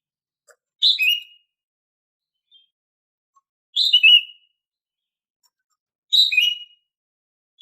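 Female green leafbird (cucak ijo) calling: a short two-note call, a high note dropping to a lower one, repeated three times with pauses of two to three seconds.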